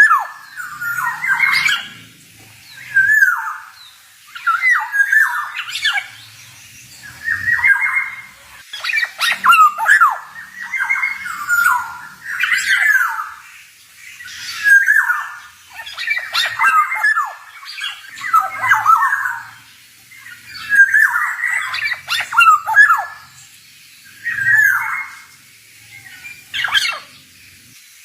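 Male black-naped oriole (kepodang) singing: short phrases of gliding whistled notes mixed with harsh raspy notes, repeated about every one to two seconds.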